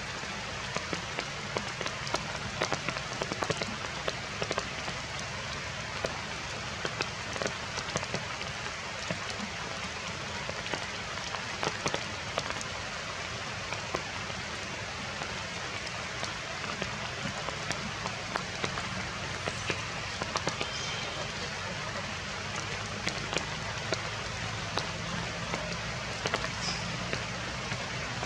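Heavy rain falling steadily, a constant hiss dotted with many sharp drop hits.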